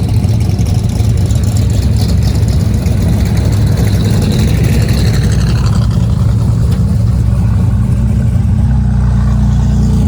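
Car engine running at low speed with a steady, deep rumble; the tone settles into a smoother, steadier note near the end.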